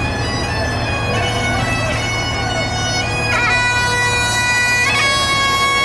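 Bagpipes playing a tune: a steady drone with the chanter stepping between held notes, flicked with quick grace notes. A low rumble sits under the first half and fades out.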